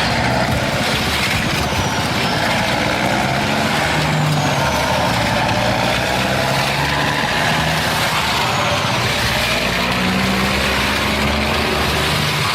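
Heavy farm machinery engine running steadily, with the engine's low hum shifting in pitch now and then.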